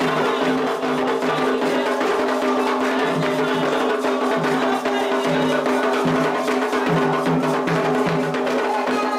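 Candomblé atabaque drums played in a fast, dense, unbroken rhythm for Xangô, led by the rum, the lead drum.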